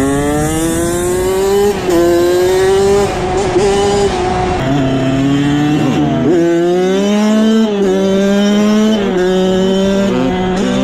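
Motorbike engine running hard under acceleration, its pitch climbing and then dropping back several times as it revs up and shifts gear.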